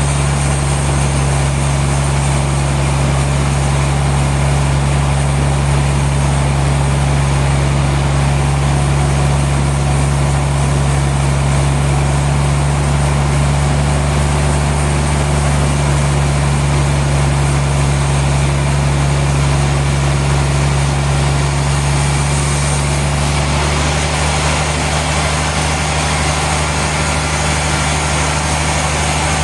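Heavy sawmill machinery running steadily: a strong low engine-like hum with a broad hiss above it. The low tone shifts slightly about three-quarters of the way through.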